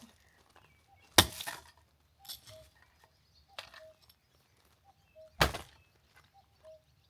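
Axe splitting firewood: two sharp chopping strikes, about a second in and again about four seconds later, with a few lighter knocks between.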